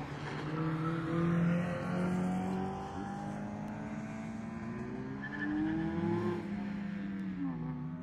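Several car engines revving, their pitch rising and falling.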